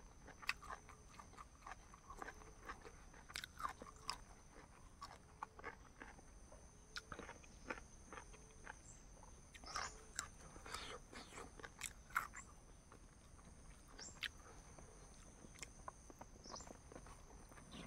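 A person eating close to the microphone: faint, irregular chewing and mouth clicks with a few sharper crunches, over a faint steady high-pitched whine.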